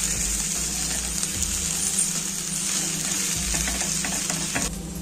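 Onion dosa frying in oil on a hot dosa griddle, a steady sizzle, with light scrapes of a steel spatula working under its edge.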